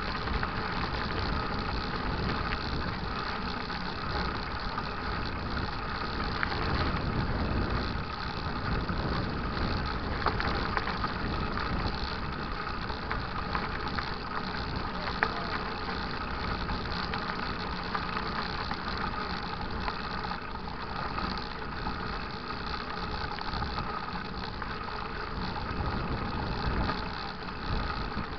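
Mountain bike riding on a dirt trail: a steady rumble of tyres and wind with rattling and small knocks from the bike over rough ground.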